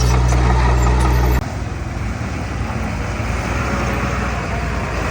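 Heavy diesel engine of earthmoving machinery running steadily with a strong low hum. About a second and a half in, the sound cuts abruptly to a quieter, rougher engine noise.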